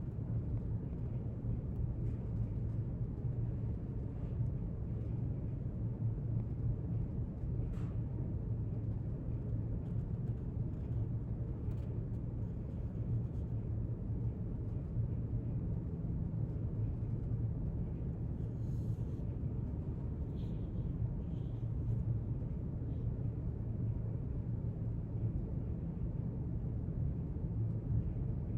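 Library room tone: a steady low rumble with a faint click about eight seconds in and a few faint small sounds later on.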